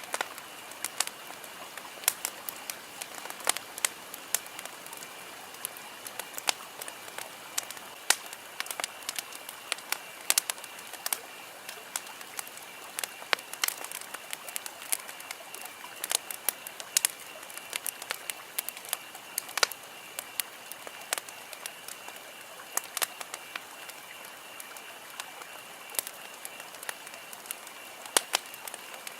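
Campfire burning: wood crackling and popping in irregular sharp snaps over a soft steady hiss, with a faint steady high tone underneath.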